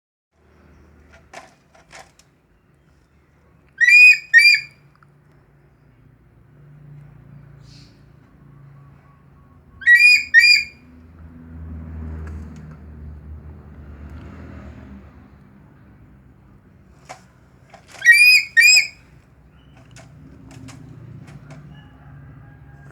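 A tame eagle calling three times, six to eight seconds apart: each call is a pair of short, high, shrill notes that rise and fall. A faint low hum and a few light clicks lie between the calls.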